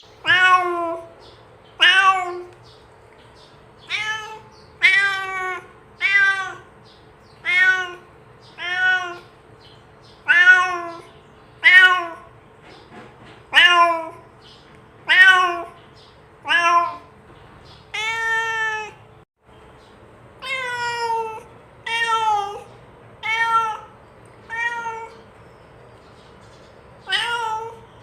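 Domestic cat meowing over and over, about one meow every second and a half. Each meow rises and then falls in pitch, and a few near the middle are drawn out longer.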